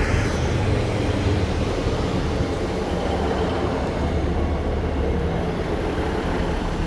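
Diesel passenger train's engine running steadily with a low rumble.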